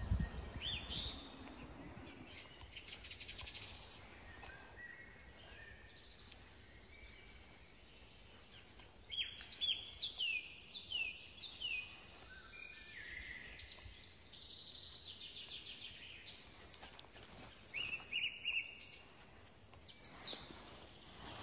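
Wild birds singing and calling, with a run of about five quick falling whistled notes about ten seconds in and more calls near the end.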